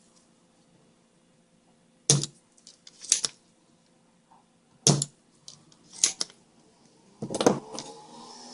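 A handful of sharp clicks and clacks, about five, a second or so apart, the loudest near the end: small tools and parts being picked up and set down on a workbench during soldering work on a TV power board.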